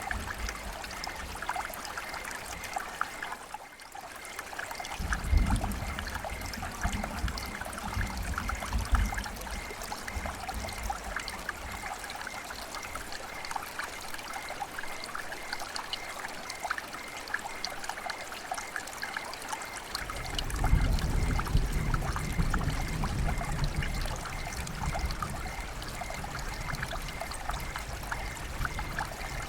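River water flowing and trickling over stones in a steady, babbling rush. Low rumbling swells come in about five seconds in and again about twenty seconds in.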